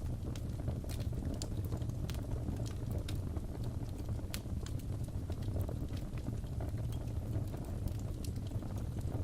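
Crackling fireplace fire: a steady low rumble of burning with irregular sharp crackles and pops scattered throughout.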